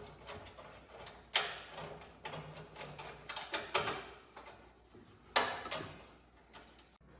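Hand tools clinking and knocking on metal while an ATV exhaust heat shield is unbolted: irregular clicks and clacks, with louder sharp knocks about a second and a half, three and a half and five and a half seconds in.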